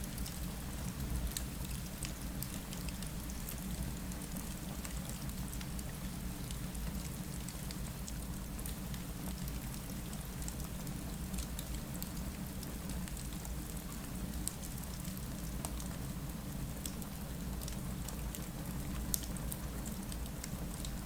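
Steady rain on a window mixed with a fireplace: an even low rumble throughout, with scattered sharp crackles and drip ticks on top.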